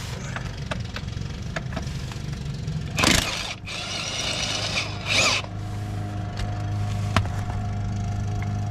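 Work on an excavator undercarriage: scattered metal clicks and knocks from tools over a steady machine hum, with two short, loud, rushing bursts about two seconds apart.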